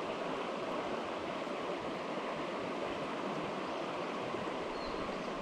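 Mountain stream water rushing steadily over rocks, a constant even hiss.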